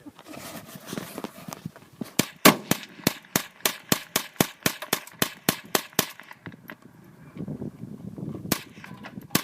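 Rapid gunfire from several guns, about three to four shots a second for roughly four seconds, then another single shot near the end.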